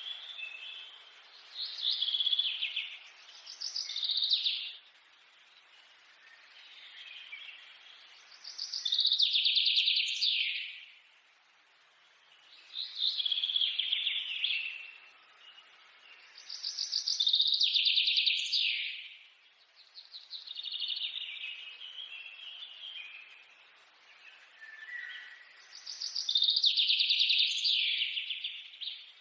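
A songbird singing the same rapid, trilled phrase over and over, each phrase lasting one to two seconds and coming about every four to five seconds.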